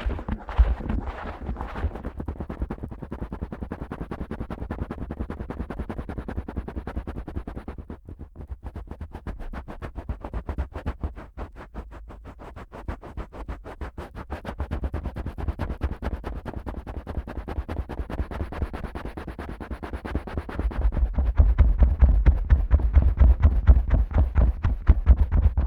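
Fingers pushed deep in and out of the ear canal of a Neumann KU100 dummy-head microphone: a fast, steady run of muffled rubbing strokes with a deep rumble. About twenty seconds in it turns to harder, louder finger scratching around the ear opening.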